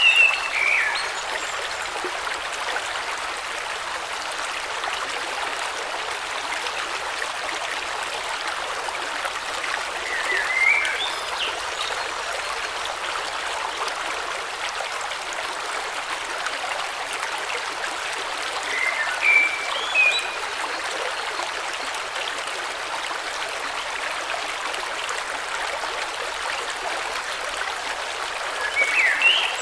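Steady flow of a river or stream, with a bird giving a short burst of chirps about every ten seconds.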